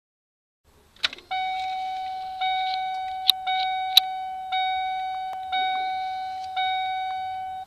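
1992 Ford Econoline's dashboard warning chime, a steady pitched ding repeating about once a second, six times, each fading slowly before the next, after a click of the ignition key about a second in; a couple of sharp ticks fall among the chimes and it cuts off suddenly near the end.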